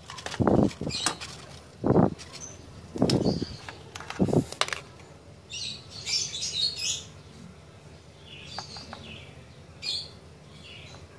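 Birds calling: a few short, lower calls in the first half, then bursts of high chirping, with several sharp clicks among them.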